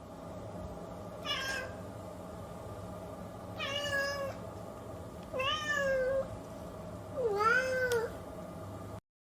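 Domestic cat meowing four times, a second or two apart, the last meow the longest and loudest, over a steady low hum that cuts off suddenly just before the end.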